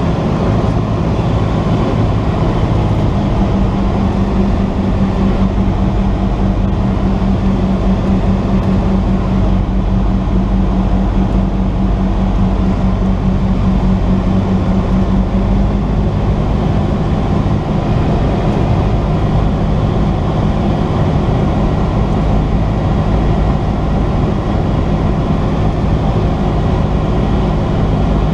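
Cessna 172's piston engine and propeller, a steady loud drone. Its pitch steps down a little about halfway through.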